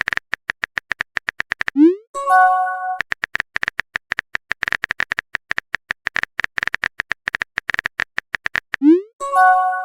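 Phone texting sound effects: fast keyboard-tap clicks. Twice they are broken by a message notification, a short upward swoop followed by a brief chime.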